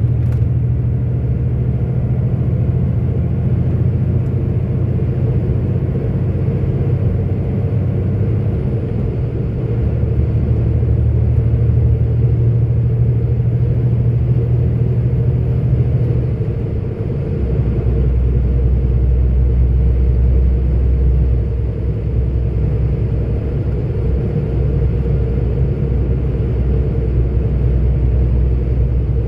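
44-ton articulated truck's diesel engine and road noise under way, heard inside the cab as a steady low rumble. The engine note drops lower about seventeen seconds in.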